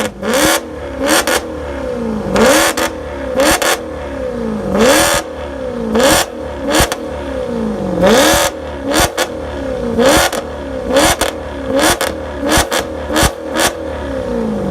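Maserati engine revved hard again and again, its pitch climbing and falling about a dozen times, with loud crackles and pops from the exhaust, coming faster near the end.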